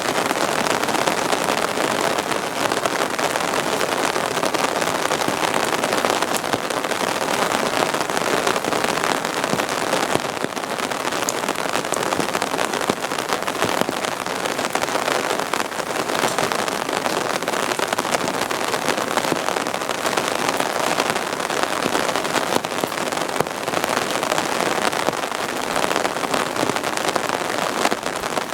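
Heavy typhoon rain falling steadily, a dense, even hiss of drops.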